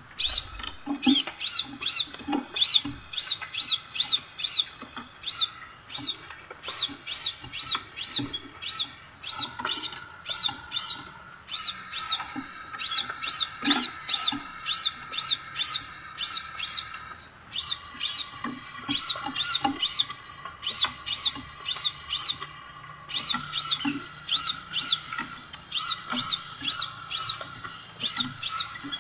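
Scarlet minivet song: high, sharp chirps repeated quickly, several a second, in runs separated by short pauses.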